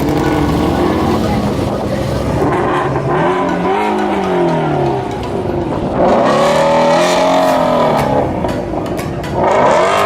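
Car engines revving hard as cars pull away, the pitch rising and falling through several revs, with a sudden louder burst of revving about six seconds in and another near the end.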